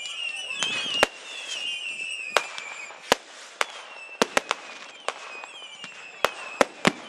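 Category 2 and 3 consumer fireworks going off: several high whistles sliding slightly downward over the first three seconds, then a quick series of sharp bangs as effects burst overhead, some coming in close pairs and threes.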